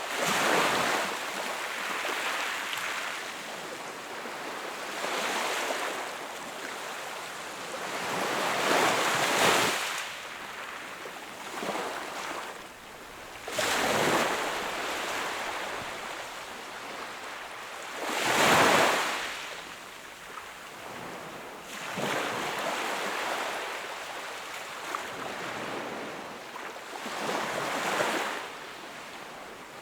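Small sea waves breaking and washing onto the shore in a slow, uneven rhythm, each wave a swell of hiss that rises and falls over a second or two, with stronger breaks about halfway through.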